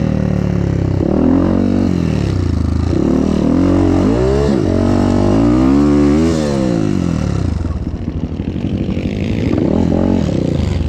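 Motocross bike engine under way, its pitch rising and falling several times as the rider opens and closes the throttle; it eases off about eight seconds in, then picks up again near the end.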